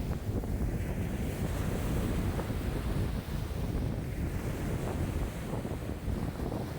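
Wind-driven waves breaking and washing on a lakeshore, with strong wind buffeting the microphone as a steady low rumble.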